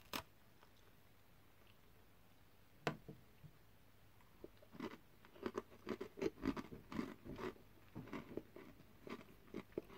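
Mouth chewing a crunchy shortbread-style butterscotch biscuit. There is a sharp snap about three seconds in, then quick, irregular crunching chews through the second half.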